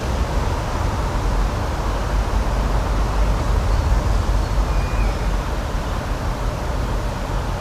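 Steady outdoor nature ambience: an even rushing noise with a deep rumble underneath, and a faint short bird chirp about five seconds in.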